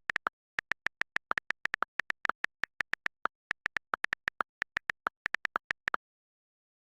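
A rapid, irregular string of short, high electronic blips, about six or seven a second, with dead silence between them. They cut off suddenly about a second before the end.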